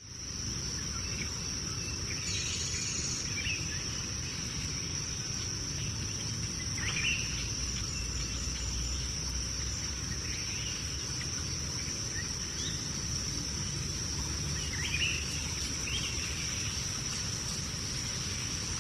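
Rainforest ambience: insects keep up one steady, high-pitched trill, while short bird chirps come in here and there, about half a dozen times.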